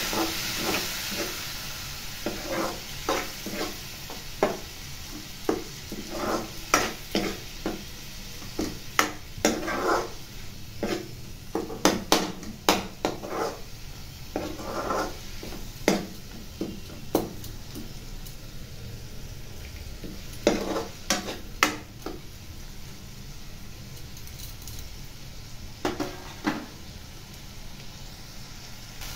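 Onion-tomato masala sizzling as it fries in a nonstick kadai, with a steel spoon stirring it and scraping and clicking against the pan at irregular moments. The sizzle is loudest at the start, just after a little water has gone into the hot masala.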